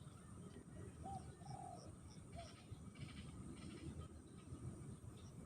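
A dove cooing faintly: a short coo about a second in, a longer coo right after it, and another short coo, over a low steady rumble.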